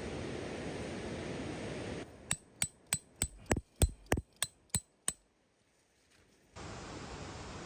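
Steady rain-like hiss that cuts off suddenly. Then comes a run of about ten sharp, ringing metallic strikes at roughly three a second, ending about five seconds in, followed by near silence before the hiss returns.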